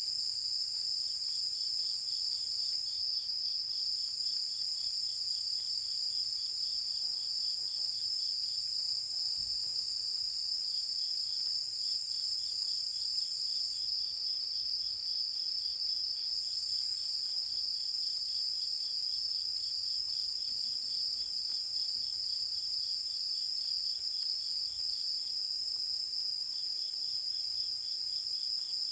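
Night chorus of insects: a steady high-pitched trill with higher buzzing above it, and a lower, rapidly repeating chirp of about three pulses a second that breaks off twice and resumes.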